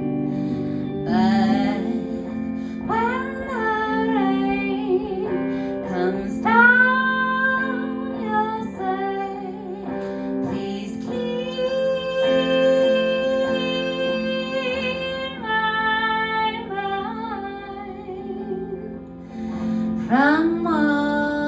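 A woman singing a slow folk song, holding and sliding between long notes over a plucked acoustic guitar accompaniment.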